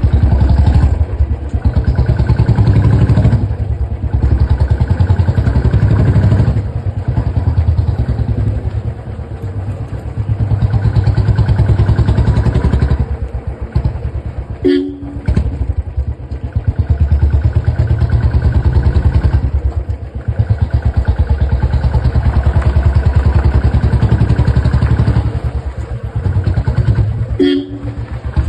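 Motorcycle fitted with a long bottle exhaust silencer, revved repeatedly in long swells that fall back between them, with a deep, rapid pulsing exhaust note. A brief two-tone sound cuts in twice, about halfway and near the end.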